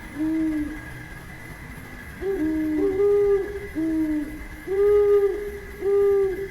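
A bird, or two birds answering each other, calling in low hoots: about seven round, half-second hoots at two slightly different pitches, over a faint steady high hum.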